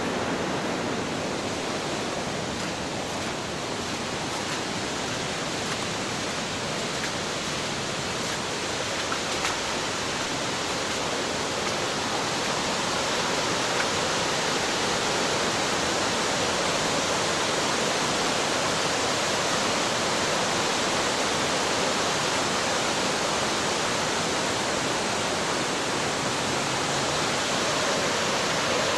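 Fast-flowing floodwater rushing steadily, a continuous even wash of water noise with no breaks.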